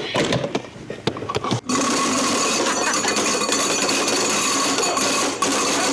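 Kitchen garbage disposal switched on about a second and a half in, then running with a loud, steady metallic rattle and hum: a wrench left inside the grinding chamber is being thrown around by the spinning plate.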